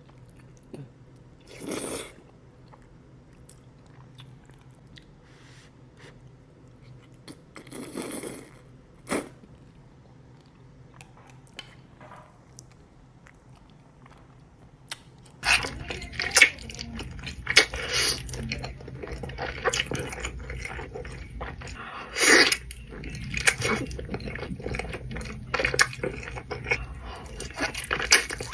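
Close-miked eating sounds: a person chewing and biting food with wet mouth clicks and short bursts. The sounds are sparse and soft at first, then turn much denser and louder about halfway through.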